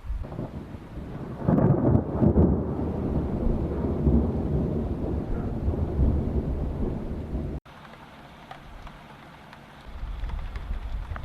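Thunder rumbling over steady rain, loudest about two seconds in; it cuts off suddenly about two-thirds through to quieter rain, and the low rumble builds again near the end.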